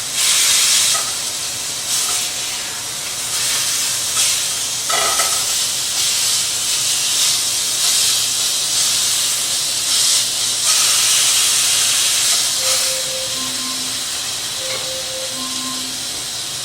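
Chicken frying in a pan, a steady sizzle with small swells as it finishes cooking.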